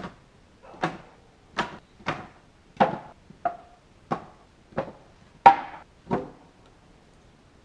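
A series of about nine sharp knocks, roughly one every two-thirds of a second, some with a brief ringing tone; the loudest comes about five and a half seconds in.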